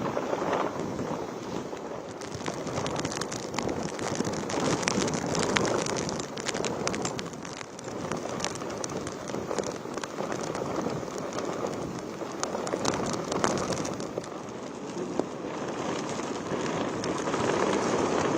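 Cyclone rain falling hard in gusty wind, the rush of noise swelling and easing with the gusts, with a spell of sharp crackling drops near the middle.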